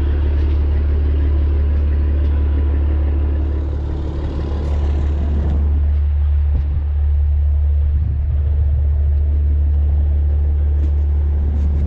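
Tanker truck's diesel engine running steadily, a continuous low drone.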